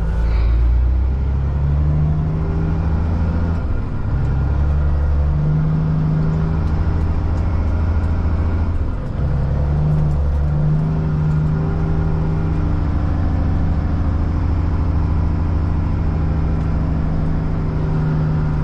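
Caterpillar C-15 diesel engine of a Kenworth truck with a straight-piped exhaust, running at low revs while the truck reverses. Its note rises and eases as the throttle is worked, with a brief dip about nine seconds in.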